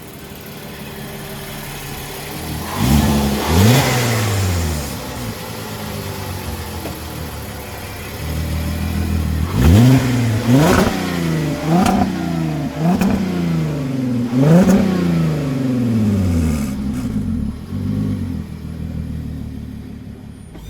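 VW Atlas VR6 engine with a resonator delete pipe, blipped through the exhaust: two revs a few seconds in, then five quick rev blips in a row about halfway through, settling back to idle between them.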